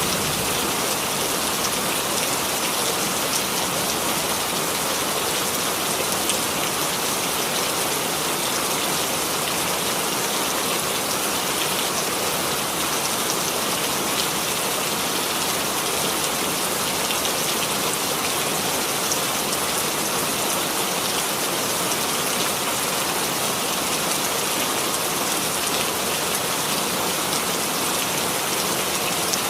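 Steady rainfall, a dense even hiss with scattered faint drop ticks, unchanging throughout.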